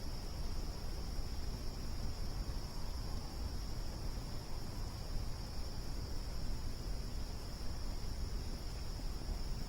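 Steady, unbroken chorus of crickets, a continuous high trill, over a low even rumble.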